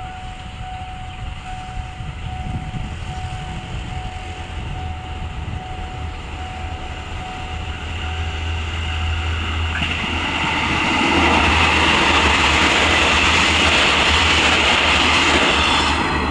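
Diesel passenger train approaching and passing close by, its engine rumble and wheel-on-rail noise building. It becomes loudest about ten seconds in and stays loud as the cars go past.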